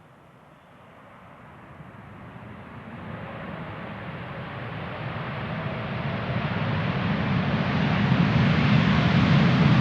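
Jet airliner's engines growing steadily louder as the aircraft approaches.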